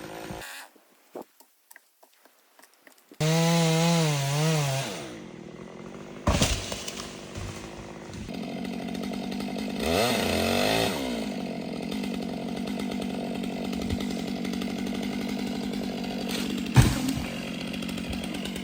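Stihl 660 two-stroke chainsaw coming in about three seconds in after a brief near-silent gap, revving and cutting wood, its pitch wavering under load. A sharp knock near the end.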